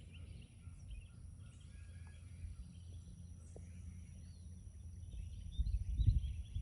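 Faint birds chirping and calling, scattered short calls, over a low rumble on the microphone that swells briefly near the end.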